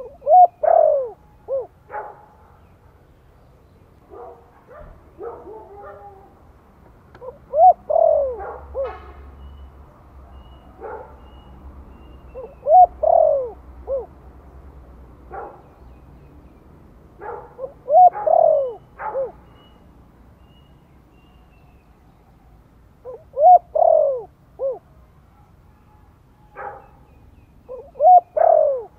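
Spotted dove cooing its territorial song, a phrase repeated about every five seconds: a couple of quick notes followed by a longer falling coo. Fainter short chirps sound between the phrases.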